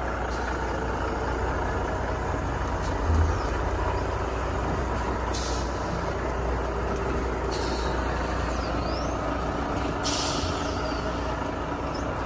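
Heavy truck engine running steadily on a muddy road, with a dull thump about three seconds in and several short air hisses from the truck's brakes.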